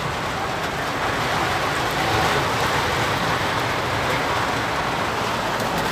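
Heavy storm rain drumming on a truck cab's roof and windscreen, heard from inside the cab as a steady, even hiss.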